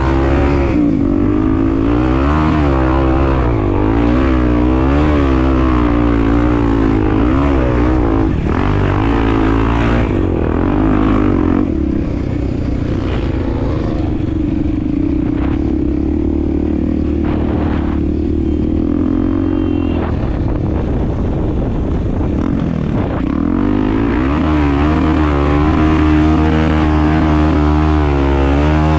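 Honda Tornado's 250 cc single-cylinder four-stroke engine running under way off-road, its revs rising and falling over and over. The revs hold steadier for a stretch in the middle, then start rising and falling again near the end.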